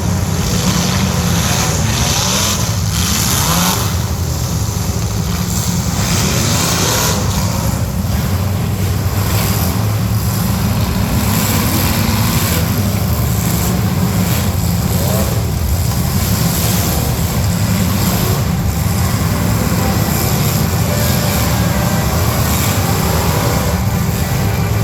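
Demolition derby cars' engines running loudly and continuously, several at once, with repeated revving rising and falling in pitch.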